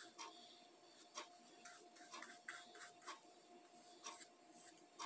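Faint, irregular strokes of a paintbrush spreading brown paint over a cardboard toilet-paper roll.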